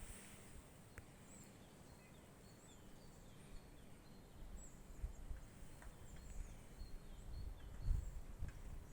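Small songbirds chirping: many short, high calls scattered throughout. In the second half a low rumble builds, loudest about eight seconds in.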